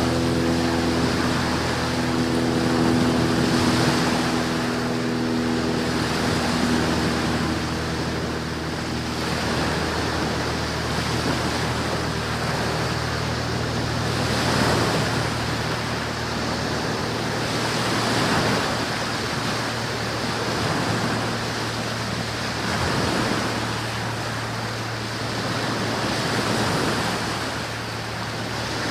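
Steady rushing noise that swells and fades every few seconds, over a low steady hum. A set of higher hum tones fades out about ten seconds in.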